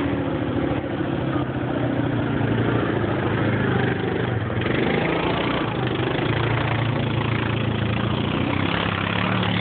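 Off-road vehicle engine running steadily at low revs, its pitch shifting slightly.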